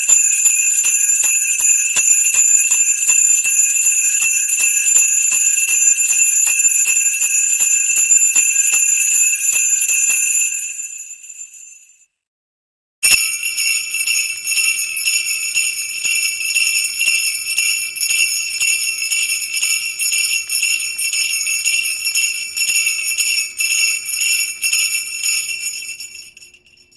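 Sleigh bells shaken in a steady rhythm of about three shakes a second, fading out about halfway through; after a second of silence they start again abruptly and fade out once more near the end.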